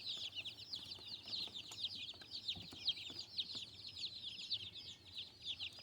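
A brood of newly arrived meat-bird chicks peeping continuously, many short, high, falling cheeps overlapping. They are screaming from the cold and will calm down once under heat lights.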